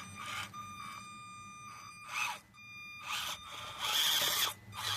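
Small electric motor of an RC crawler truck whining high and steady, starting and stopping twice, with short scraping bursts in between.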